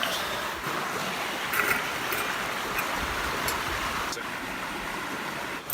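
River water running steadily, with a few faint clicks over it.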